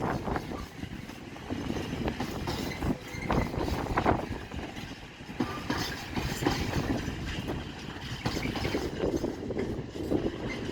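A train moving through the station, rumbling with irregular clanks and knocks, while wind buffets the microphone.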